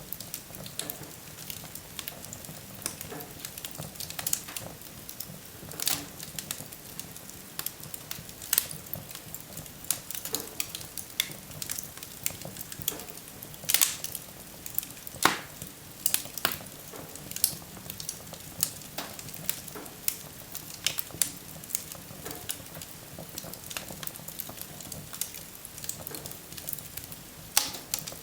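Wood fire crackling and hissing, with irregular sharp pops, a few louder ones scattered through.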